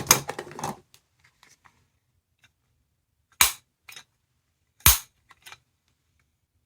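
Sound-effect capsule toy playing a gunshot-like bang twice, about a second and a half apart, after a short clatter near the start.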